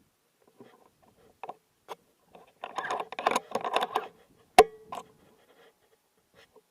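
Rustling and clicking handling noise, then a single sharp gunshot about two-thirds of the way through, with a brief ringing after it.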